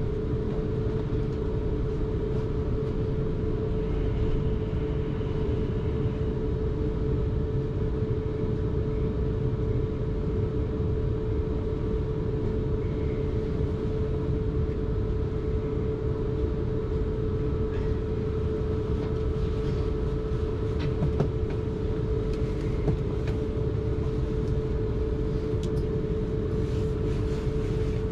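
Third-rail electric passenger train running along the line, heard on board: a steady low rumble from the wheels on the track with a constant drone just under 500 Hz, and a few faint clicks in the second half.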